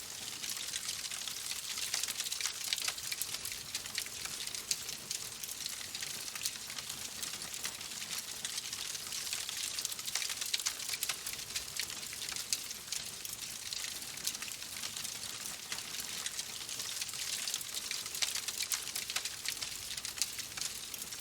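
Fireplace wood fire crackling: a steady hiss full of small sharp pops, many each second, without letup.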